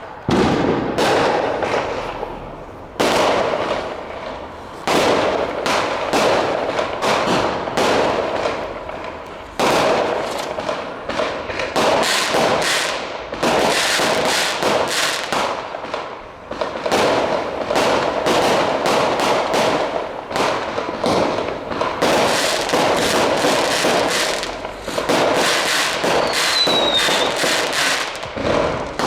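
Fireworks going off in quick succession: a dense run of bangs and crackling, with a brief whistle near the end.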